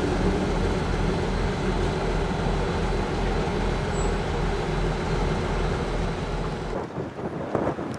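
Rumble of a train that has just passed, receding down the line as a steady noise with a low hum that slowly fades. About seven seconds in it cuts off and gives way to wind buffeting the microphone.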